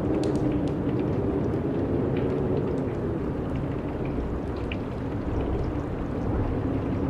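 Steady wind blowing, a low rushing noise with a faint wavering hum and scattered small ticks.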